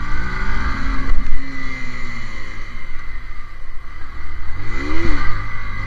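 A 150 cc motorcycle's single-cylinder engine running under throttle, over wind noise. The revs climb and drop back about five seconds in.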